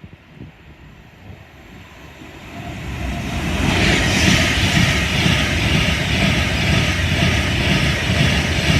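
Class 390 Pendolino electric train passing through the station at speed: a rush of wheels on rail and air that builds over about three seconds, then stays loud and steady with a deep rumble underneath.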